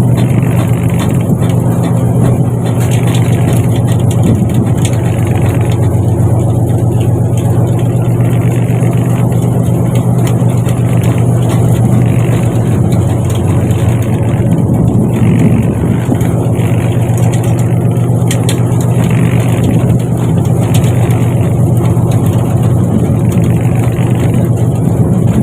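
Fishing boat's engine running steadily, a constant low hum with an even rush of noise over it.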